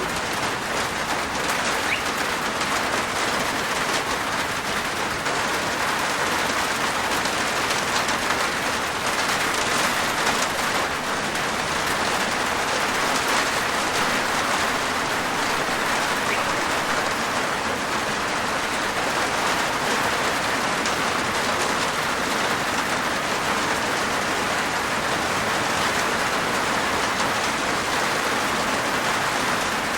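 Steady rain falling on a rooftop: a dense, even patter of raindrops.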